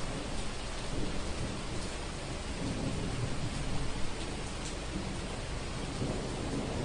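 Thunderstorm: steady rain with low, rolling thunder.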